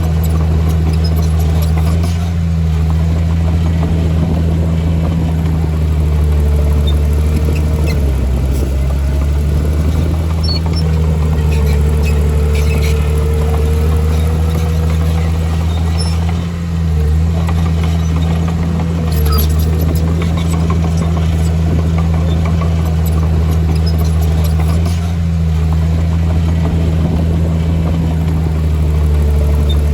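Heavy earthmoving machine's diesel engine running steadily with a deep drone, and a thinner whine above it that comes and goes.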